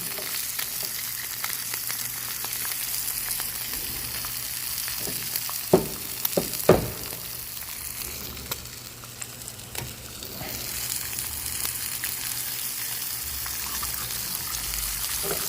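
Steak, mushrooms and eggs frying in garlic butter in a skillet: a steady high sizzle. Two sharp knocks stand out a little before the middle, and the sizzle drops briefly after them.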